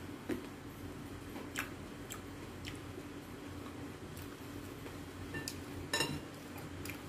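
Green grapes being chewed, giving scattered small wet clicks and smacks, with a sharper tap about six seconds in as fingers pick grapes from the bowl.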